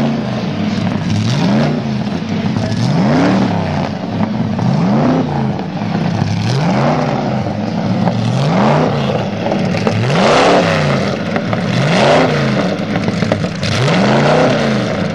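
Race car engine revved over and over, its pitch rising and falling about every two seconds.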